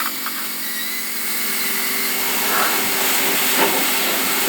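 Pressure washer running: a steady motor hum under the even hiss of the water jet spraying onto an engine.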